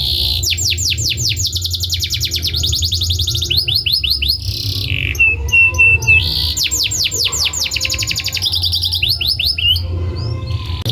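Domestic canary singing a long, continuous song of fast trills: runs of rapidly repeated down-sweeping notes that change speed and pitch every second or two, with a short held whistle midway.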